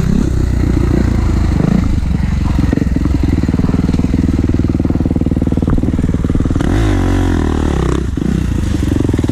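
Kawasaki KX450 dirt bike's four-stroke single-cylinder engine running under throttle as it is ridden, with the revs rising and falling about seven seconds in.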